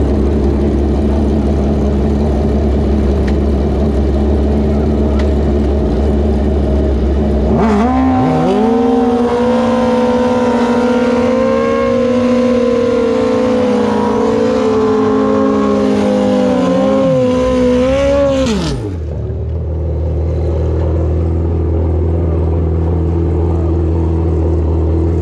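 Racing engine running low, then revved up sharply about eight seconds in and held at high revs for about ten seconds, wavering slightly, before the revs drop back and it settles into a low steady run again.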